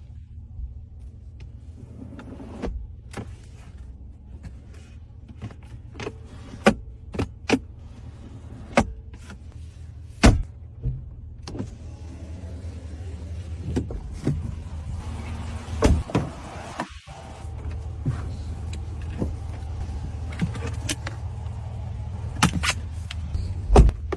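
Steady low hum inside a Ram 1500 pickup's cab, with a series of separate sharp clicks and knocks from its fittings being worked, a dozen or more spread unevenly.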